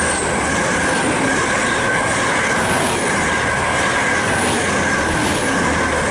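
Great Western Railway Class 800 IET bi-mode train running through the station without stopping, on its diesel engines on this unelectrified line. It makes a loud, steady rush of wheels on rail with a steady high whine over it.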